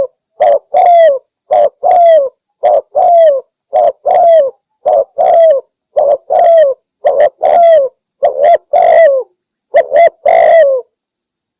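Spotted dove (Javanese derkuku) cooing: a steady series of short-then-long coo pairs, the longer note falling in pitch, repeated about every second, stopping shortly before the end. A loud, close call of the kind used as a lure to draw in wild doves.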